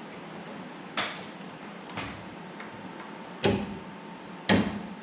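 Four sharp knocks, spaced about a second apart, the last two loudest, as of hand tools working on the car's metal parts.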